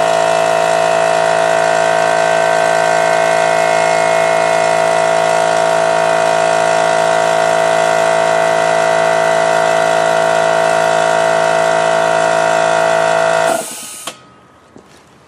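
Harbor Freight Central Pneumatic 2 hp, 8-gallon air compressor running during its break-in with a steady, even pumping hum. It cuts off suddenly about a second and a half before the end, followed by a few faint clicks.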